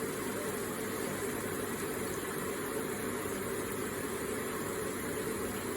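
Water running steadily from an electric water feature: a continuous, even splashing rush with no changes.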